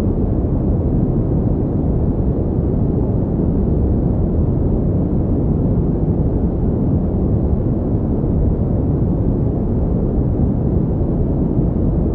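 Continuous generated pink noise for sleep and focus: an even, unchanging deep rumble with little high hiss.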